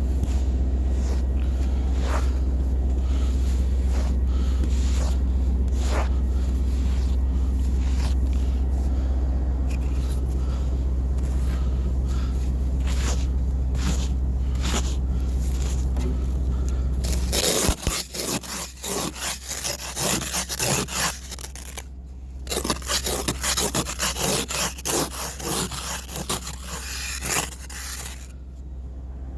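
A 1998 Chevy Silverado's 350 Vortec V8 idling steadily after a cold start. About two-thirds of the way in, the low engine drone falls away and a run of close, irregular scraping and rustling strokes takes over.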